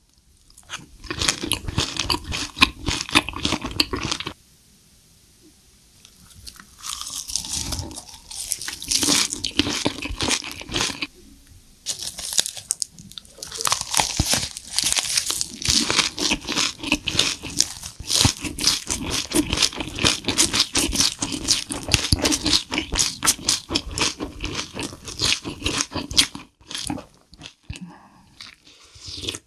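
Close-up mouth sounds of eating: wet chewing and loud crunching of mouthfuls of food, including bites of raw leafy greens, in a dense crackle of small clicks. There is a lull of about two seconds about four seconds in and short breaks near the end.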